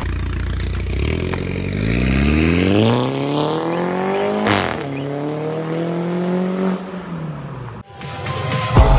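Mini Cooper S (F56) turbocharged four-cylinder through a decat downpipe and valved sport exhaust, accelerating: the engine note climbs steadily for about three seconds, with a sharp crack about halfway through, then holds high and fades out.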